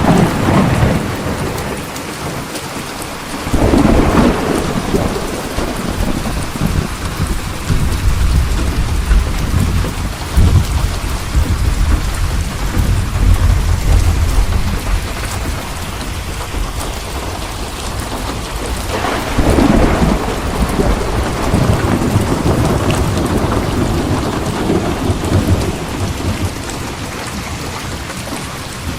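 Steady heavy rain with thunder: a rumble at the start, a crack-and-rumble about four seconds in with a long deep rumble rolling on through the middle, and another thunder peal about twenty seconds in.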